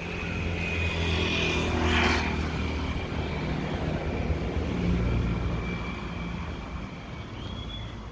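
Passing vehicle traffic: a low engine rumble that swells twice, with a high steady squeal early on and a brief sharp noise about two seconds in.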